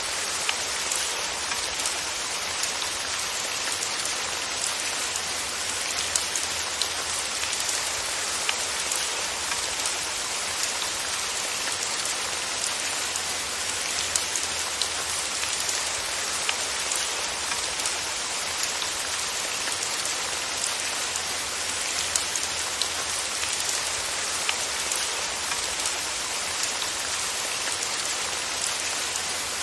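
Steady rain with a dense even hiss and many small drops ticking on a surface.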